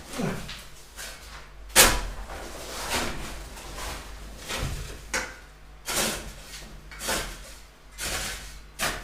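Repeated hard strikes of a hand digging tool chopping into an old hard-packed clay floor, about one blow a second at an uneven pace, the loudest about two seconds in.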